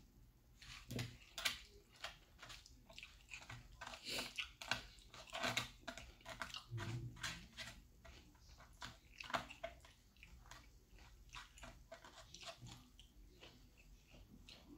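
A person chewing and biting into fried fish close to the microphone: irregular wet, clicky mouth sounds with some crunching, the loudest about a second and a half in and again near nine seconds.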